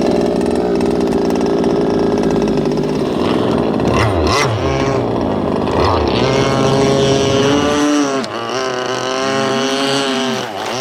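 Small two-stroke gas engine of a ProBoat Rockstar 48-inch RC catamaran, a 26cc Zenoah, kicking in abruptly and running at a steady buzz, then its pitch wavers up and down over the last few seconds as the throttle is worked. The engine is new and being run gently through its break-in.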